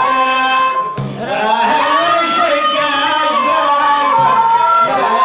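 Moroccan malhun music: a melodic line with percussion strokes.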